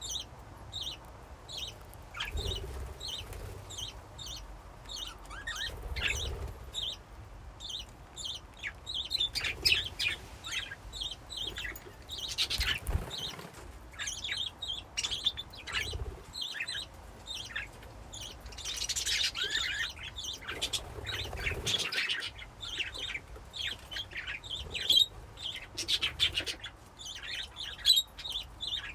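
A flock of budgies chirping and chattering without pause, many short overlapping chirps, with now and then a flutter of wings or a knock in the cage.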